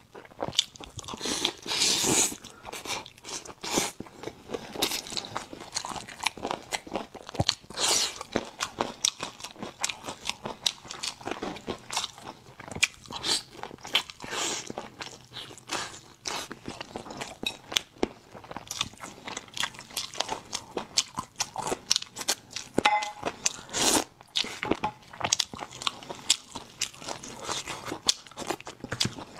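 Close-miked mouth sounds of someone biting and chewing glazed braised meat: wet smacks and frequent short, sharp clicks, irregular and continuous.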